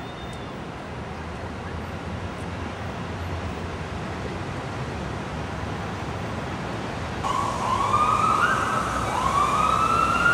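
Steady street traffic noise, then an emergency vehicle's siren starts about seven seconds in and wails, its pitch sweeping up and down and louder than the traffic.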